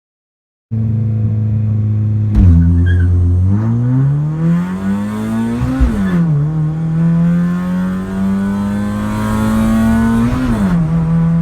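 Drag car's engine holding a steady high rev, then launching hard: the engine note climbs, falls sharply at an upshift about halfway through, and climbs again to a second shift near the end.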